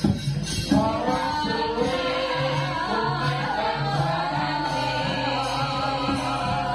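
Javanese gamelan playing while a sinden sings a wavering, ornamented vocal line over it; the ensemble picks up again about a second in after a short break.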